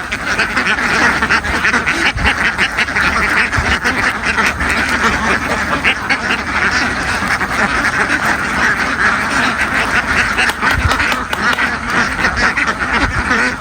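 A large flock of domestic ducks quacking all at once, a dense, continuous din of many overlapping calls.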